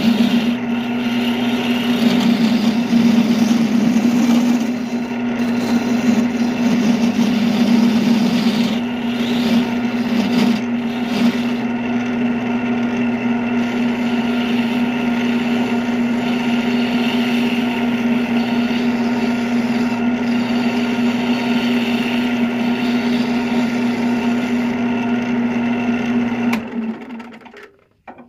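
Wood lathe's electric motor running at a steady speed with a strong, even hum, then switched off about a second and a half before the end and dying away.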